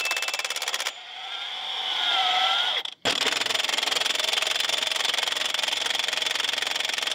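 Milwaukee M18 FUEL 1-inch D-handle impact wrench hammering rapidly on rusted Budd nuts on semi-truck rims. The hammering eases about a second in and builds back up, breaks off for a moment just before three seconds, then runs steadily again.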